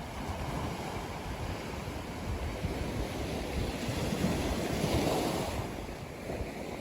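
Ocean surf on a sandy beach: a wave washes in, growing to its loudest about four to five seconds in, then draws back.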